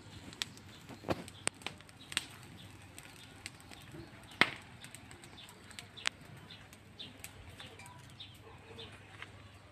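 Rubbish fire crackling, with sparse, irregular sharp pops; the loudest comes about four and a half seconds in. Faint bird calls sound in the background.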